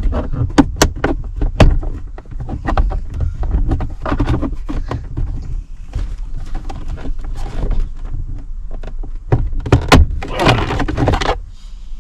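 Plastic centre-console trim being pried and pulled off inside a car: a run of sharp clicks, knocks and thunks from the panel and its clips, with a longer scraping rasp near the end.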